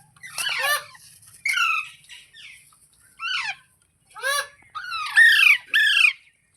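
Indian ringneck parrot calling: a series of about seven short, harsh squawks, each sliding down in pitch, the loudest ones coming in quick succession near the end.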